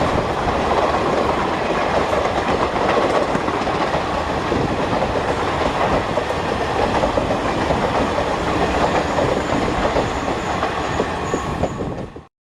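Express train running past at speed, its wheels clattering steadily over the rail joints. The sound cuts off abruptly just before the end.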